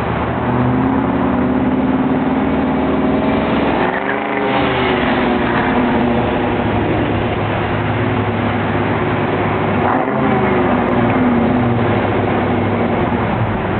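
1995 Mustang Cobra's 5.0 V8 exhaust, breathing through an off-road H-pipe with stock manifolds and stock cat-back mufflers, running steadily. The engine pitch dips and climbs again about four seconds in, and once more about ten seconds in.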